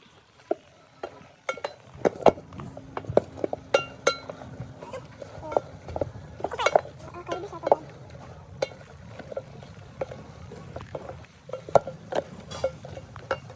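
Cookware being handled: repeated sharp clinks and knocks of metal pots, dishes and utensils, irregularly spaced.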